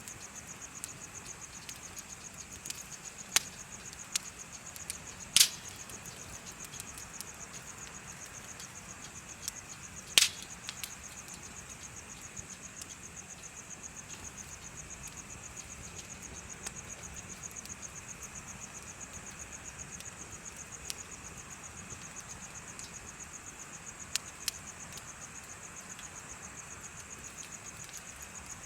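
Bonfire crackling with a few sharp pops, the loudest about five and ten seconds in, over the steady, fast-pulsing chirping of insects.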